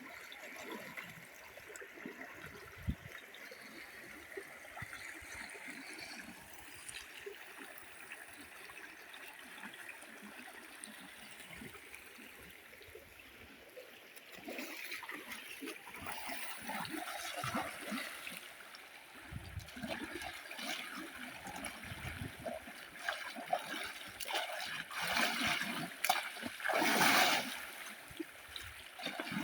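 Water splashing and trickling as a person bathes in a full river, scooping and pouring water over the body, with the river's flow underneath. The splashing is light at first, gets busier about halfway through, and is loudest near the end.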